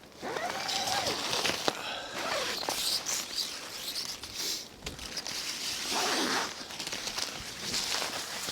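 A tent door zipper being pulled open and shut, with long rasping runs.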